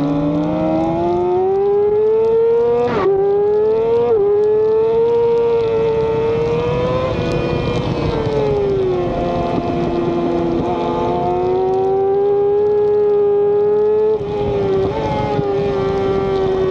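Middleweight superbike engine running at high revs on track, heard onboard. The engine note climbs, then drops sharply with two quick upshifts about three and four seconds in. It holds high, eases off and settles lower around the middle, then runs steady again, with wind rush under it.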